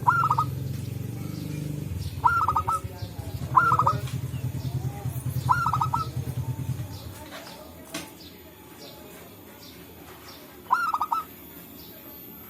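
Zebra doves (local perkutut) calling: five short bursts of quick staccato coos, spaced a second or two apart, with a long gap before the last one. A low pulsing hum sits beneath the first seven seconds.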